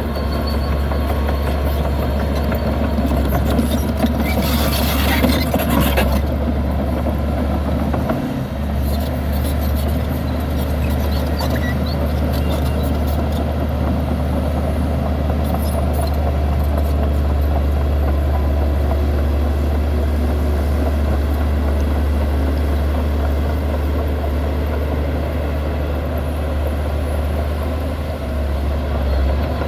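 Heavy diesel engine of a Shantui DH17C2 crawler bulldozer running steadily under load, with a harsher burst of noise about four seconds in lasting around two seconds.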